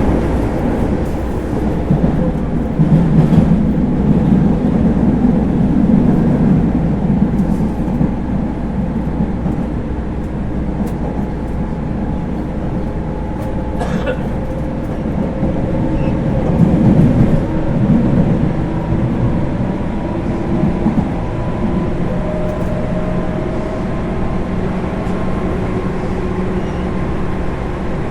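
Onboard running noise of a JR 205-series electric car with MT61 external-fan traction motors: a steady rumble of wheels on rails that swells a couple of times, with a thin tone creeping up in pitch in the second half.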